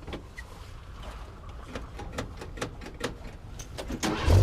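Irregular clicks and knocks. Near the end, the low steady drone of a Thiokol Spryte tracked over-snow vehicle's engine cuts in loudly.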